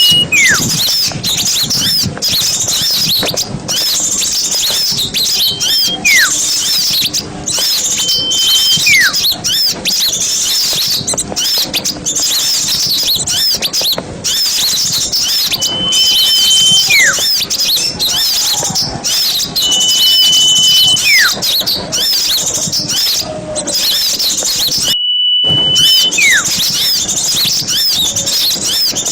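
Bird-lure recording of a noisy mixed chorus of small songbirds chirping and twittering rapidly. Every few seconds a clear whistle is held steady, then drops sharply in pitch. The sound cuts out for a moment near the end.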